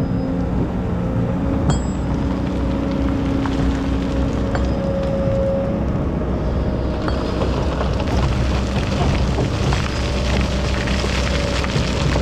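Excavator's diesel engine running steadily with a steady hydraulic whine and a few clicks. From about seven seconds in, a louder rushing, rattling noise joins in.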